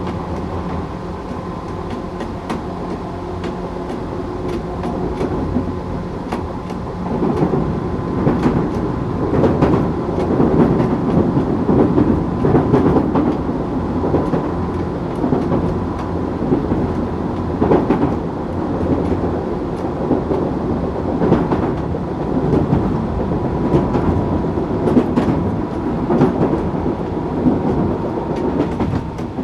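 Tokyu 8500 series electric train running, with Toyo-made traction motors. A steady high tone runs throughout. About seven seconds in, the rumble of the wheels on the rails grows louder and rougher, with repeated clacks from rail joints.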